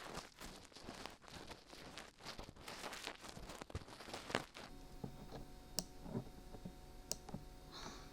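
Dried glue being peeled off a binaural microphone's ears, with close crackling and small clicks, dense for the first half. Then only a few separate clicks.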